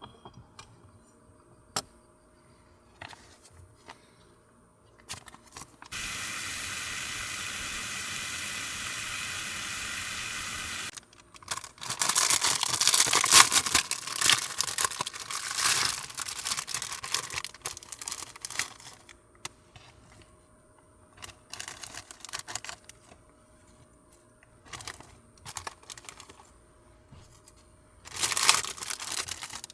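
A steady hiss for about five seconds, then several seconds of loud crinkling and tearing of plastic packaging, with scattered clicks and taps around it and a shorter burst of crinkling near the end.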